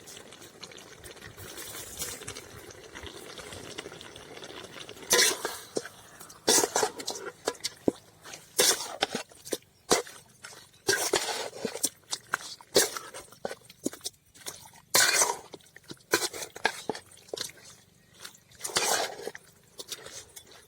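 Chicken cooking in masala in a pot with a steady sizzle; from about five seconds in, a spoon scrapes and knocks against the pot in irregular strokes as the mix is stirred.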